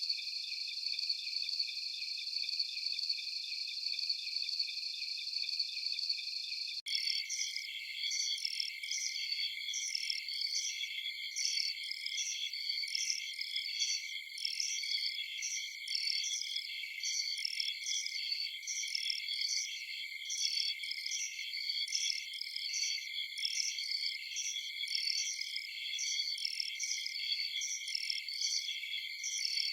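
Chorus of crickets trilling steadily. About seven seconds in it cuts abruptly, with a brief dropout, to a denser, rhythmically pulsing cricket chorus, the join of two looped recordings.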